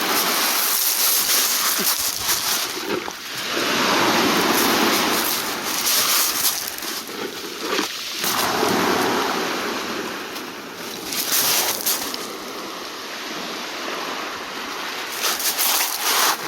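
Sea waves washing in and drawing back in slow surges, with wind buffeting the microphone and a few faint knocks.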